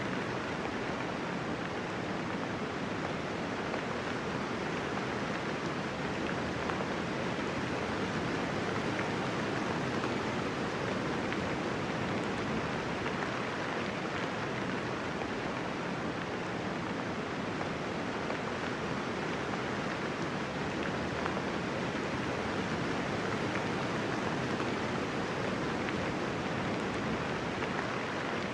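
Steady light rain falling, a soft even hiss with no thunder.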